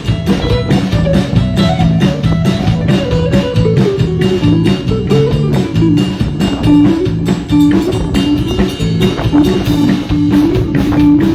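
Live band playing an upbeat instrumental: a guitar carrying the melody over bass guitar and a drum kit keeping a steady beat.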